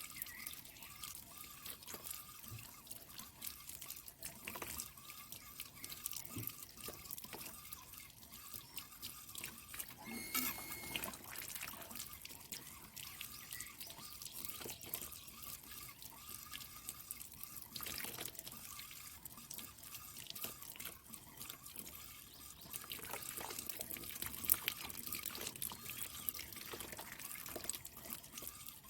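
Water trickling and dripping with scattered small splashes and knocks, as filter mats from a stream-fed water tank are rinsed.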